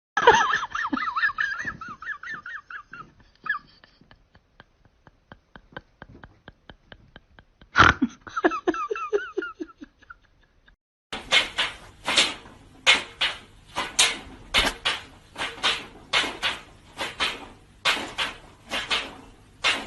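A pet animal's wavering, warbling whining calls, heard twice with a run of quick clicks between them. From about eleven seconds in they give way to regular noisy strokes, about two a second.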